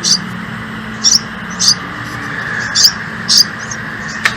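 A bird giving short, high chirps, about five of them at uneven intervals, over a steady background hiss, with one sharp click near the end.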